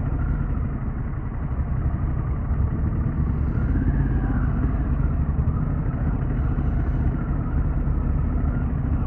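Harley-Davidson Pan America's Revolution Max V-twin engine running steadily under way at low speed, a continuous deep rumble, with a faint rising and falling whine about four seconds in.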